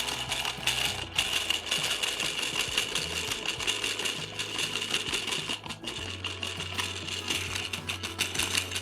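Small toy washing machine from a DIY candy-drink kit running, a steady whirring with fast rattling ticks as it churns the water and powder.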